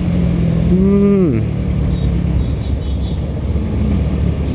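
KTM RC 200 motorcycle, a single-cylinder bike, riding at steady speed: a steady engine hum under heavy wind rumble on the helmet-mounted microphone. About a second in, a short pitched sound rises and falls in pitch.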